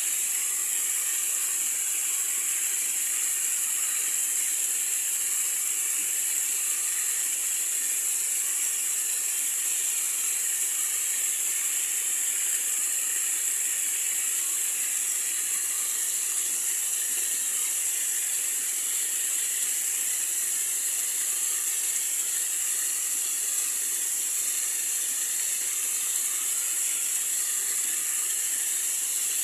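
Running water: a steady, high hiss that stays even throughout, with no low rumble.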